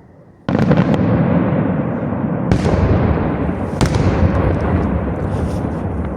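Aerial firework shells bursting: a loud bang about half a second in, then two more sharp bangs about two and a half and four seconds in, each trailing a long echoing decay.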